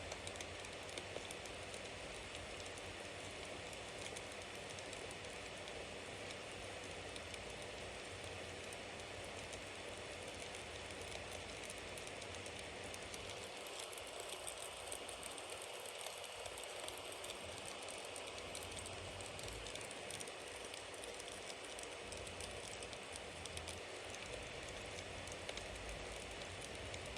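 Bonfire burning steadily, a continuous hiss of flames with a constant scatter of small crackles and pops from the burning wood.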